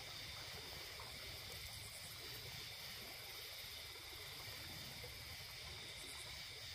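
Steady sound of a river's flowing water, an even low rush with a faint high hiss over it.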